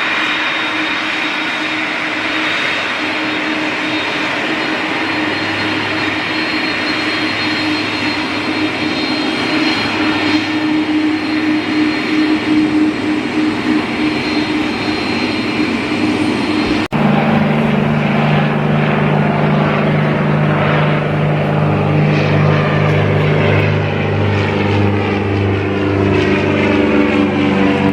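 Airliner jet engines running steadily with a high whine and a low hum. About two-thirds of the way through the sound cuts off abruptly, and steady pitched tones take over.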